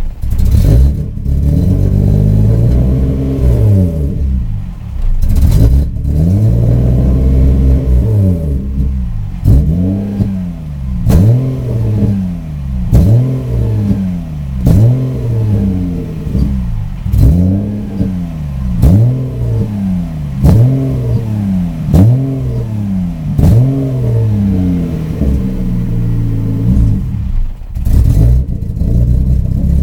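Subaru EG33 flat-six engine revved over and over, its revs rising and falling about every two seconds, with a sharp crack near each peak. It won't rev cleanly under throttle and sounds as if it isn't firing on all cylinders: an intermittent misfire and loss of power, with no check-engine light.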